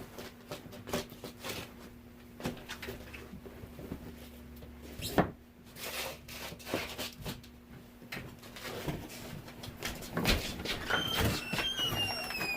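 Scattered knocks, clicks and rustles of grocery bags and items being handled and set down, with a few high squeaks near the end.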